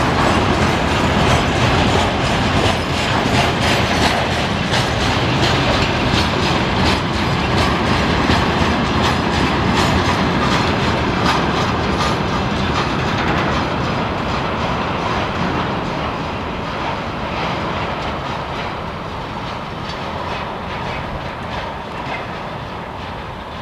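Freight train of railway tank cars rolling past, the wheels clicking in a regular rhythm over the rail joints under a steady rumble. The sound slowly fades over the second half as the last wagons go by and the train draws away.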